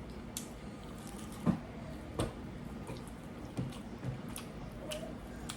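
Close-up eating sounds: wet chewing and smacking of a mouthful, heard as about six short clicks and squelches over a low steady hum.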